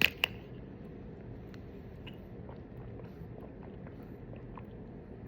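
Someone drinking from a bottle of fruit-punch Gatorade: two sharp clicks at the start, then quiet, faint mouth and swallowing sounds.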